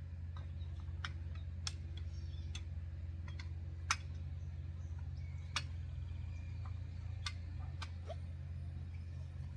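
Irregular light clicks and taps, one or two a second, with two sharper clicks about 4 and 5.5 seconds in: Springfree trampoline mat rods being handled and fed into their slots. A steady low hum runs underneath.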